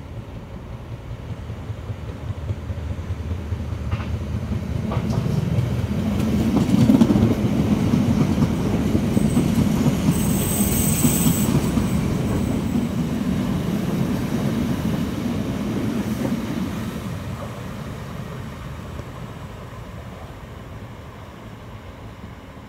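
Electric multiple unit passing by on the railway. Its low rumble builds as it approaches, with a few sharp clicks as it nears. It is loudest as it passes, with a brief high-pitched squeal about ten seconds in, then fades away.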